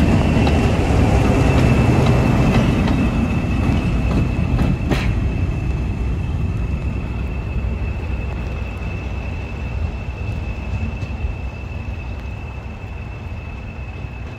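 Diesel-hauled passenger train running past close by, wheels rumbling and clattering on the rails, the sound fading steadily as it goes. A thin, steady high whine sounds throughout.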